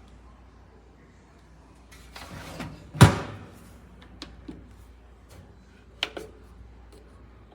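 A scrape ending in one loud, sharp clunk about three seconds in, then a few lighter clicks and knocks: hard objects being handled and set down.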